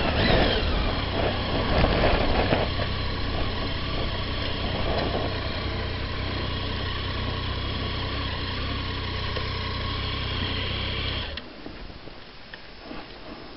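Triumph Tiger motorcycle engine idling steadily, then switched off about eleven seconds in.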